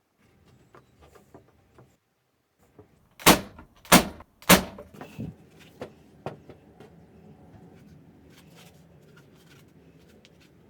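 Three loud, sharp knocks about two-thirds of a second apart, followed by several lighter knocks and taps.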